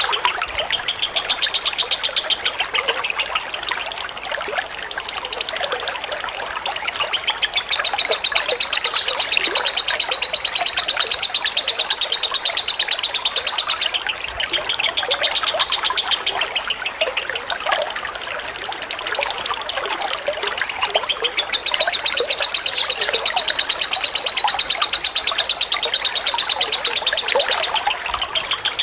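Lovebird singing its long, drawn-out 'ngekek' song, a very fast chattering trill that runs on with only brief dips, over steadily trickling water.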